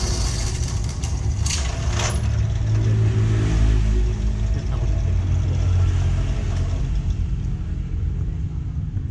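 Vehicle engine running with a deep rumble, swelling about three seconds in and easing off again near the end.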